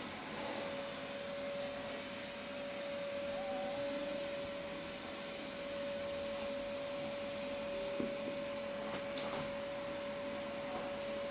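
Steady hiss of rain with a constant hum of one pitch, and a single small click about eight seconds in.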